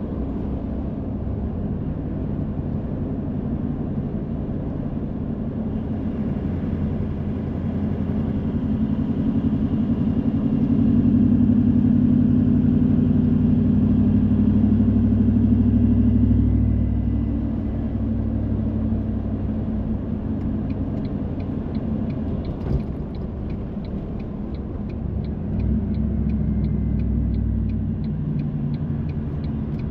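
Car driving, heard from inside: a steady low rumble of engine and road noise that grows louder from about a third of the way in, then eases off. About two-thirds in, a steady ticking of about two clicks a second starts.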